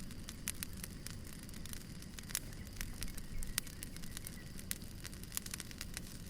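Firewood burning, crackling with irregular sharp pops and snaps over a steady low rumble of the fire.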